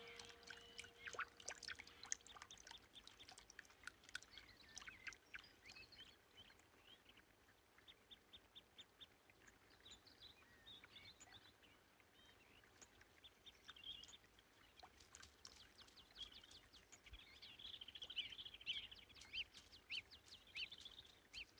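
Faint calls of several small birds: scattered chirps and short quick trills, thickest near the end.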